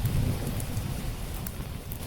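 Steady rain with a low rumble of distant thunder that dies away over the two seconds, and a few sharp crackles from a wood fire on top.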